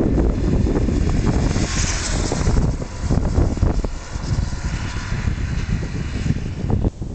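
Wind buffeting the microphone of a Yamaha TDM900 motorcycle on the move, with the bike's engine and road noise under a steady rush.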